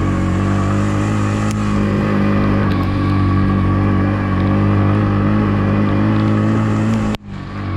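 Yamaha MT-15's single-cylinder engine running at steady revs while riding. Near the end the sound cuts out abruptly and comes back at a lower pitch.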